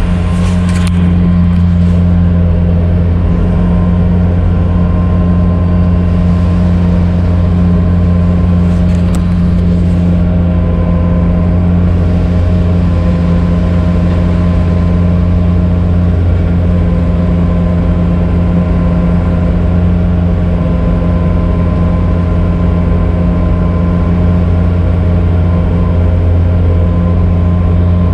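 Engine of a tracked loader running steadily at an even, constant speed, a strong low hum with a steady tone above it.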